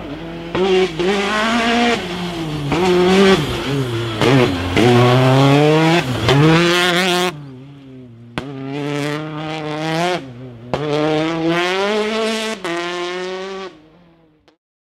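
World Rally Car turbocharged four-cylinder engines at full throttle, revving up through the gears with short dips at each shift. There is a sudden cut about seven seconds in to a second car doing the same, which fades away near the end.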